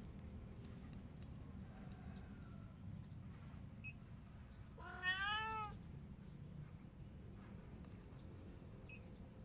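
A domestic cat meows once, about five seconds in: a single short call that rises and then falls in pitch.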